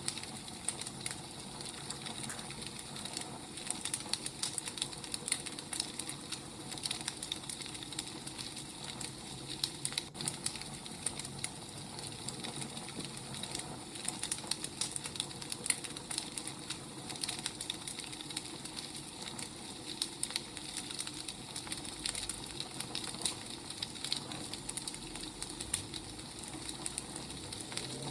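Burning firewood crackling steadily: a constant soft hiss with many small, sharp, irregular pops.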